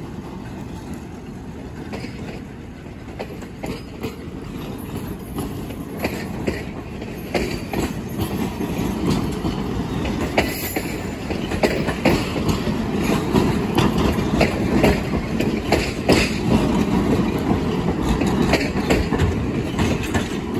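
Passenger coaches of a passing train rolling on steel rails: a low rumble with repeated clicking of wheels over rail joints, growing louder after a few seconds.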